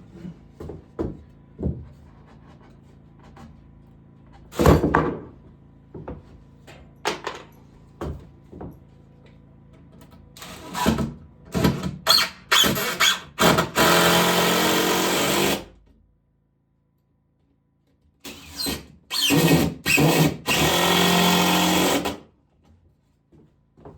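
Power drill run in short trigger bursts, then held for two longer steady runs, among knocks and clicks of handling, with one loud knock early on.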